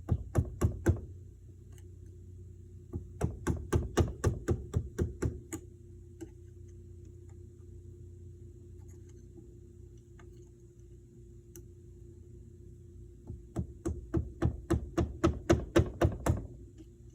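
Small hammer tapping on a pick, metal on metal, to drive a new seal down into a power steering cylinder. Three runs of quick light taps, about five a second: one near the start, one from about three to five seconds in, and a longer one near the end.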